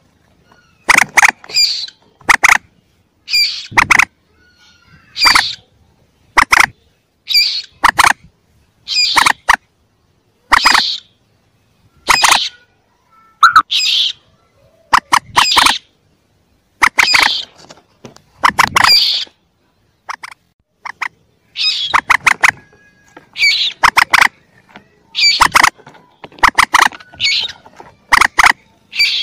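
Calls of a young common moorhen: short, sharp calls repeated every second or two.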